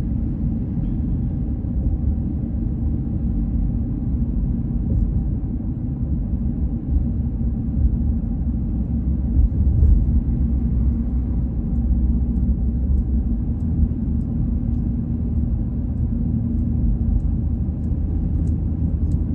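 A car on the move: a steady low rumble of engine, road and wind noise, swelling louder for a moment about halfway through.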